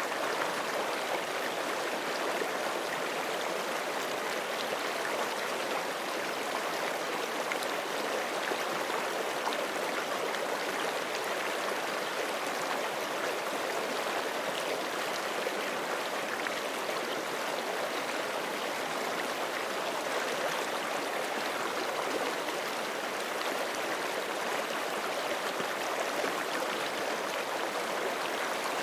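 Forest stream flowing steadily over rocks, an even rushing and babbling of water.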